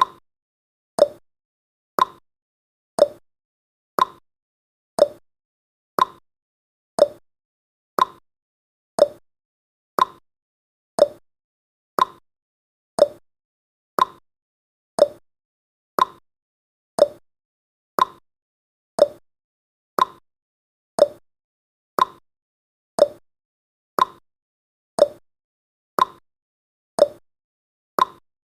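Countdown timer's clock-tick sound effect, one short sharp tick every second, evenly spaced.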